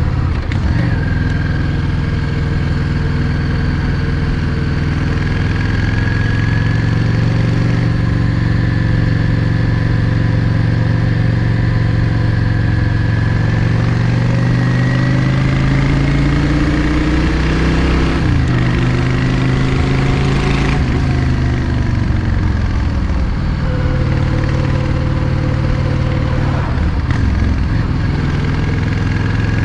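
Yamaha XVS 650 Drag Star's air-cooled V-twin engine running under way. Its pitch climbs steadily as the bike accelerates, drops sharply twice past the middle, then settles into a steady run.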